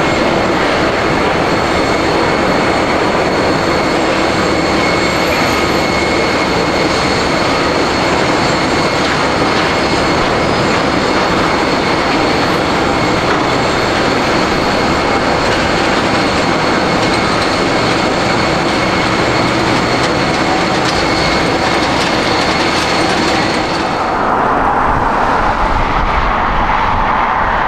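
Jet airliner engines running loud and close, a steady roar with a thin high whine held over it. About 24 seconds in, the hiss and whine fall away, leaving a lower rumble as the aircraft moves off.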